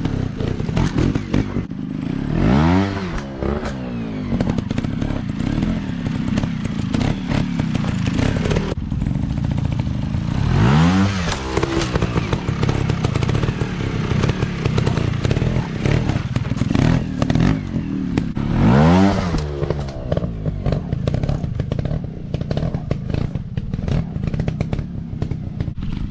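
Dirt bike engine running rough and loud, revving up three times with rising pitch about eight seconds apart, with clattering and thuds in between.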